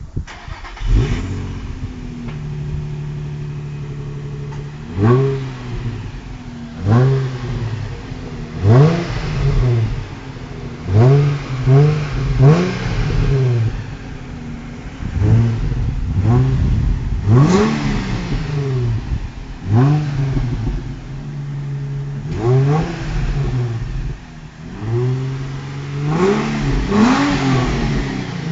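Nissan 350Z's 3.5-litre V6 idling and being revved in quick blips, about a dozen times; each rev climbs sharply and falls back to a steady idle.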